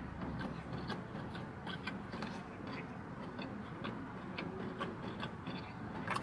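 Close-up chewing of a chicken bacon croissant sandwich: irregular small wet mouth clicks and smacks, a few a second.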